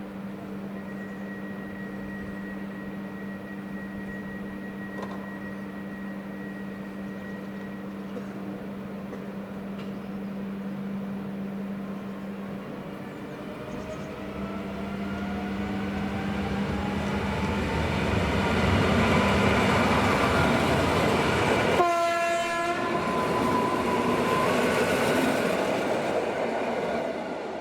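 A train approaching and passing, growing louder, with a whine that climbs steadily in pitch as it accelerates. A short horn blast sounds about two-thirds of the way in.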